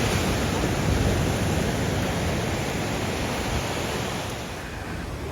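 Steady rushing wash of sea surf on the shore, easing a little near the end.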